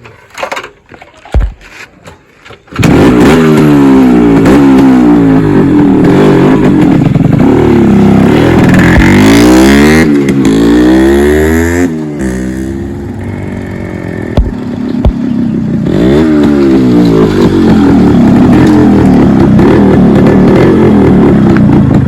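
Yamaha RX135 two-stroke single-cylinder motorcycle engine bursting into life about three seconds in, then loud and revving up and down again and again. It eases to a lower run for a few seconds around the middle, then revs hard again.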